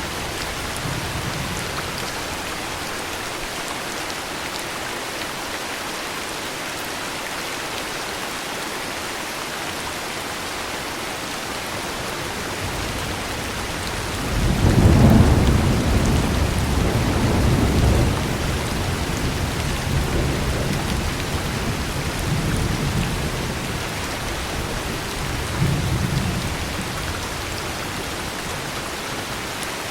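Steady heavy rain with a thunderstorm. About halfway through, a low thunder rumble swells to its loudest and rolls on for a few seconds, then fades in weaker rolls.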